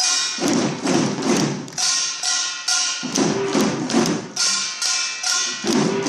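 Samulnori percussion ensemble playing a steady rhythm: drum strokes from janggu hourglass drums with repeated strikes and ringing metallic tones over them, about four strikes a second.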